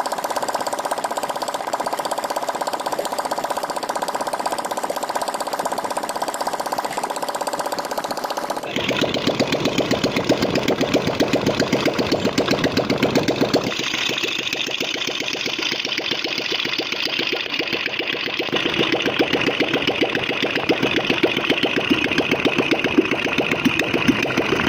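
Royal Enfield Bullet's single-cylinder four-stroke engine running after a magneto coil change. The sound changes abruptly about nine seconds in and again near fourteen seconds, getting louder after the first change.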